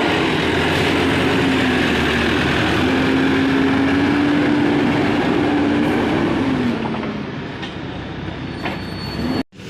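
Heavy diesel machinery running with a loud, steady drone and a faint wavering hum; about seven seconds in the hum fades and the sound drops in level.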